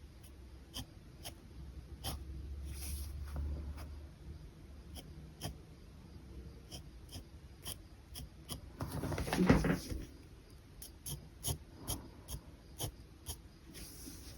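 Ink pen drawing on paper: many short scratchy strokes and taps, with one louder scrape or rustle about nine seconds in.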